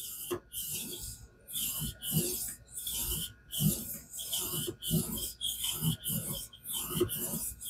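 Knife blade stroked back and forth across a King whetstone in a fixed-angle guided sharpener, a rasping scrape about twice a second.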